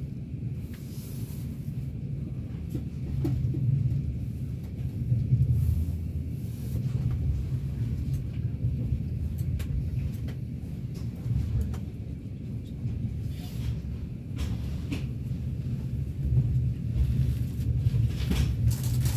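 Steady low rumble of an InterCity passenger train running, heard from inside the carriage, swelling and easing a little, with a few light clicks and knocks scattered through it.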